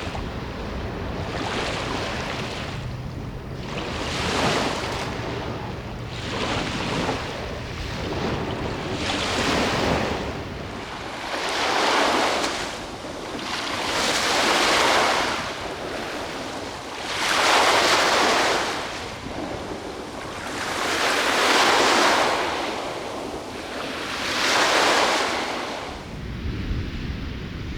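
Sea waves breaking and washing on the shore, the surf swelling and fading about every three seconds. Wind buffets the microphone with a low rumble for the first ten seconds or so and again near the end.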